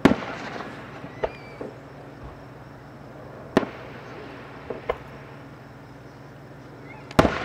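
Aerial fireworks shells bursting: a loud bang right at the start, another about three and a half seconds in and a pair of bangs near the end, each with a short rumbling tail, and smaller pops in between.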